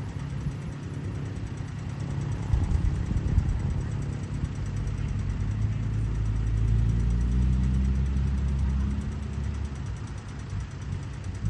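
CAT 320D hydraulic excavator's diesel engine running at work, a rough low rumble that rises into a steadier, louder drone for a few seconds past the middle.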